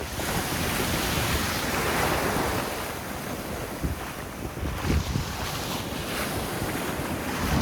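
Sea waves washing onto a beach, one wash swelling about two seconds in, with wind buffeting the microphone in low thumps.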